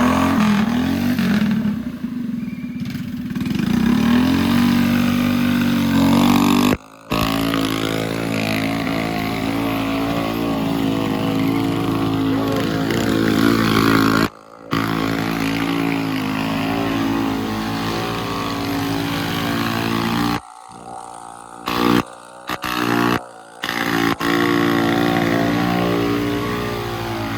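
Mini bike engine running, its pitch shifting a little as it is throttled, with several abrupt cuts between clips.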